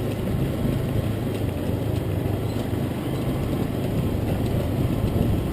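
Engine of a vehicle moving at low speed, running steadily with a low hum, with wind noise on the microphone.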